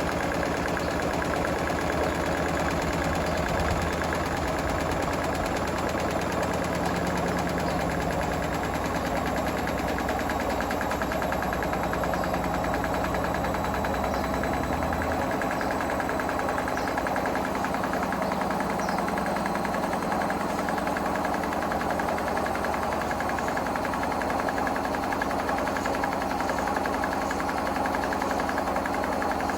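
Hotpoint WMFUG742 washing machine running steadily, its motor and tumbling drum making a constant mechanical noise. The deepest part of the hum drops out about halfway.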